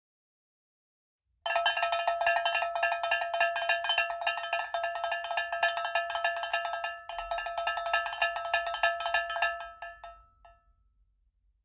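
Rapid metallic ringing strikes, like a small bell or cowbell struck over and over, starting about a second and a half in, with a short break about seven seconds in, then dying away near the end.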